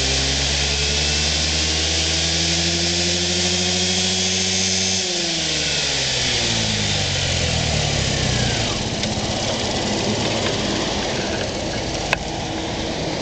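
Kymco V-Link125 scooter engine held at raised revs with its pitch creeping up, then let off about five seconds in, the pitch falling over a few seconds back to a rougher idle. A single sharp click near the end.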